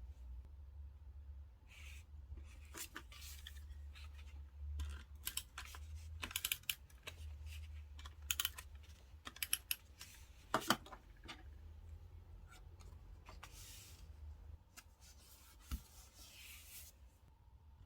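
Paper and sticker handling while decorating a diary page: irregular taps, clicks and short rustles, with a sharp click about ten and a half seconds in the loudest, over a steady low hum.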